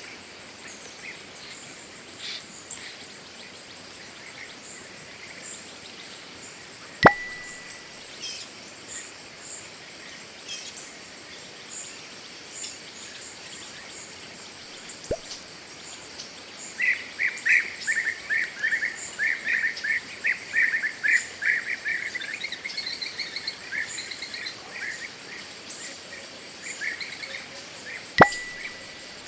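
Forest ambience: steady high insect buzzing with birds calling. From about the middle, a bird gives a long run of rapid repeated notes. Two sharp clicks stand out, one about a quarter of the way in and one near the end.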